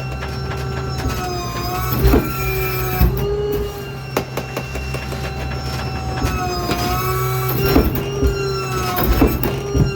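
Ford F-550 New Way Diamondback rear-load garbage truck running with its packer compacting a load: loud squeals that dip and rise in pitch every couple of seconds over a steady engine hum, with sharp cracks and knocks of dumped material being crushed.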